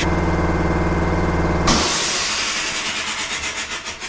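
Boge shop air compressor running with a steady hum, then cutting out about one and a half seconds in with a sudden loud rush of escaping air that slowly fades: the pressure cut-off working after a makeshift repair.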